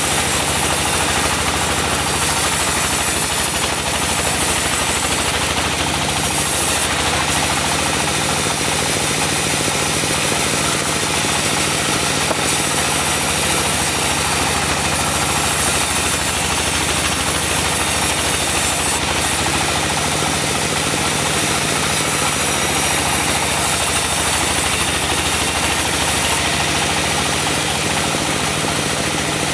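Diesel engine driving a portable band sawmill, running steadily, with a high hiss from the saw that swells and eases every few seconds.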